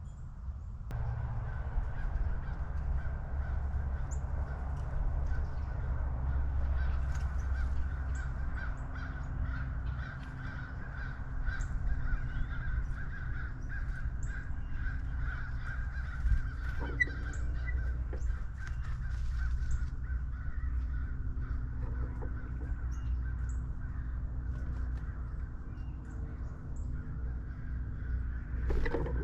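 Crows cawing over a steady low rumble, with scattered short high chirps.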